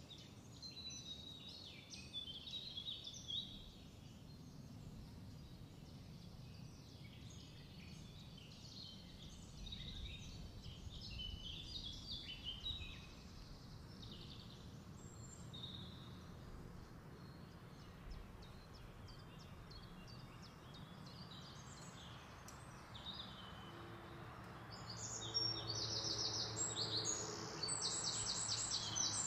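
Small birds chirping faintly over low background noise, breaking into a louder, rapid trill near the end.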